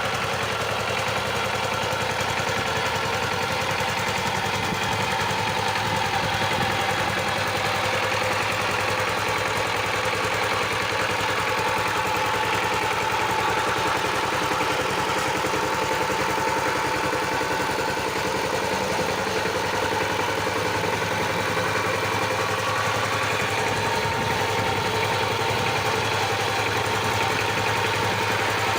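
Power tiller's engine running steadily at an even speed.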